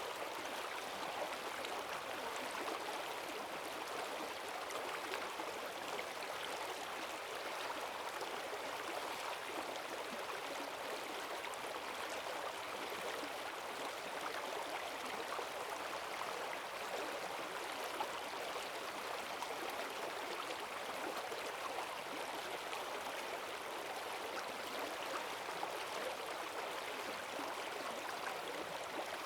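Forest stream running high after heavy rain: fast water rushing and gurgling over stones in a steady, unbroken flow.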